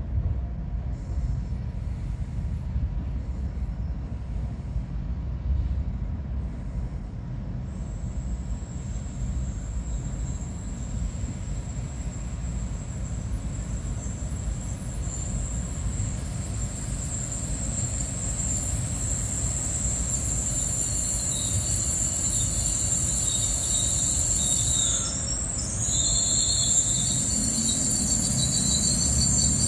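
N700-series Shinkansen train pulling slowly into the station and slowing to a stop, with a steady low rumble of wheels on rail. A thin, high-pitched squeal comes in about eight seconds in and grows stronger as the train draws alongside.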